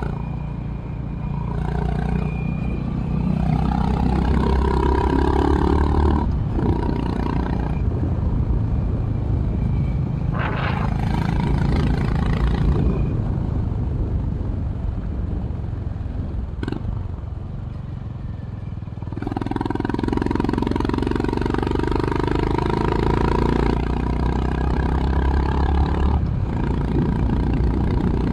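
Honda H'ness CB350's single-cylinder engine through its stock exhaust, heard onboard while riding. It pulls hard with short dips at gear changes, eases off through the middle, and pulls strongly again about two-thirds of the way through.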